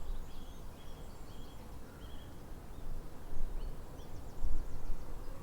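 Outdoor natural ambience: faint, short chirps repeating every half second or so over a low rumble that swells briefly about four seconds in.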